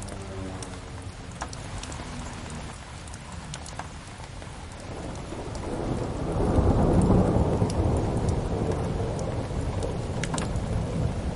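Steady rain with scattered sharp crackles from a wood fire, then a roll of thunder that swells about five seconds in, peaks a couple of seconds later and slowly dies away.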